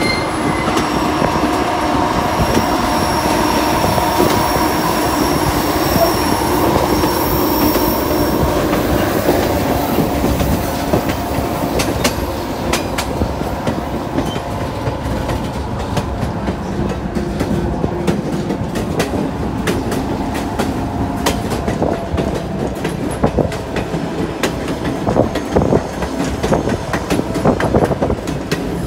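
Steel wheels of a moving passenger train running on the rails, heard from an open car platform. There is a steady rumble with a high wheel squeal on the curve over the first several seconds, then sharp clicks over the rail joints, frequent through the second half.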